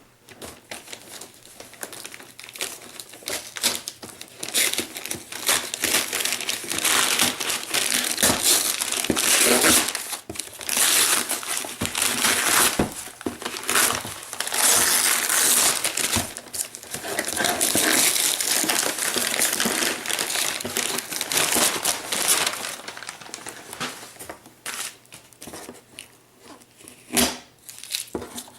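Box fan's packaging being opened and handled: long stretches of crinkling and rustling wrapping, thinning out near the end into a few separate knocks and clicks.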